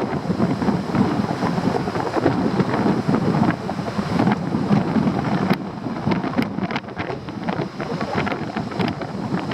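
Wind on the microphone: a rough rushing that swells and fades, with several sharp ticks in the second half.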